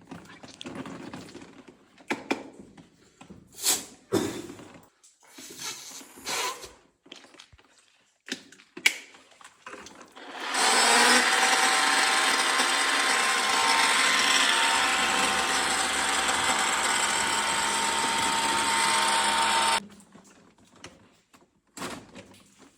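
A few scattered knocks and clicks, then a pressure washer starts up about ten seconds in and runs steadily as a motor-driven pump with a spray hiss, and cuts off suddenly about nine seconds later.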